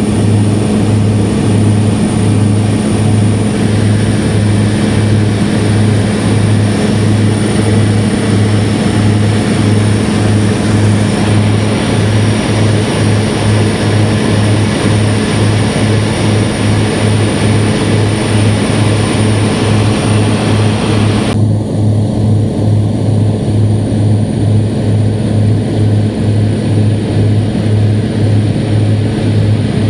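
Propeller airplane engine heard from inside the cabin, a loud steady low drone with a regular throb. About two-thirds of the way through, the higher hiss drops away suddenly while the drone carries on.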